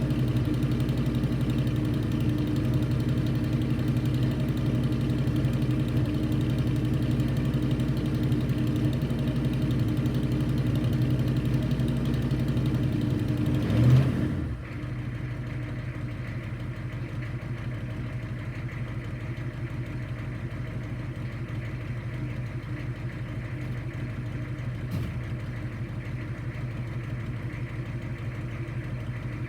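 A cold-started 6.2 Detroit diesel V8 idling steadily. About halfway through it briefly gets louder, then goes on idling quieter and duller.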